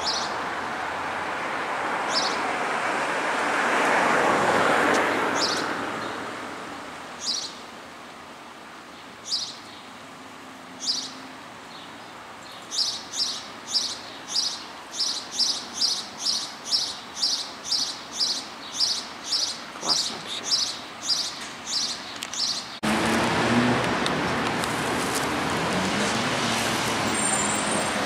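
A songbird calling with short high chirps over the hum of street traffic, with a car passing early. The chirps come every second or two at first, then about twice a second. Near the end the traffic noise suddenly steps up to a louder, steady street-traffic sound.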